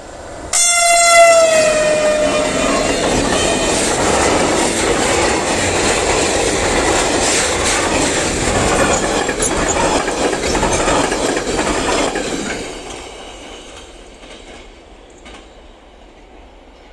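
A freight train's locomotive sounds one horn blast about half a second in, its pitch dropping slightly as it passes, then a long rake of sliding-wall covered wagons rumbles and clatters past on the rails. The noise stops fairly suddenly at about 12 seconds as the last wagon goes by, then fades away.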